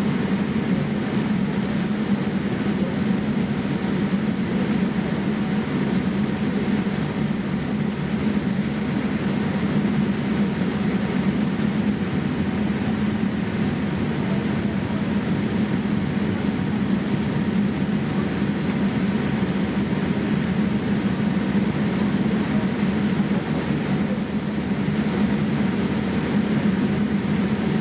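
Steady cabin noise inside a Boeing 787-8 airliner: a constant rush of air and engine noise over a low drone, unchanging throughout.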